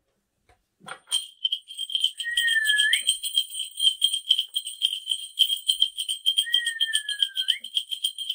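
Korean shaman's ritual spirit bells (mugu bangul) shaken rapidly and evenly, starting about a second in, a sign of calling the spirits before the reading. Twice over the ringing comes a short whistled note that slides down and then flicks up.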